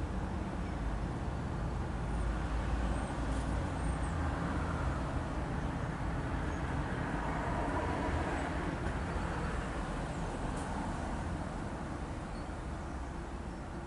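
Low rumble of a passing vehicle that builds over the first few seconds and slowly fades, with a few faint high bird chirps about three seconds in.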